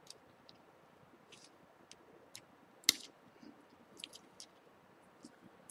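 Small plastic and metal smartphone parts being handled and fitted into the phone's frame: scattered light clicks and taps, with one sharper click about three seconds in.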